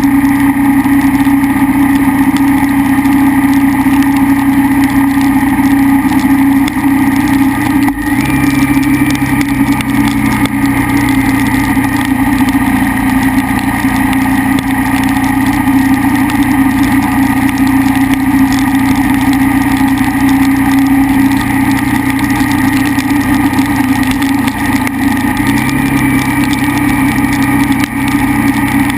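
KTM 990 SMR's V-twin engine running at a steady speed while riding, with a small step up in pitch about eight seconds in and again near the end.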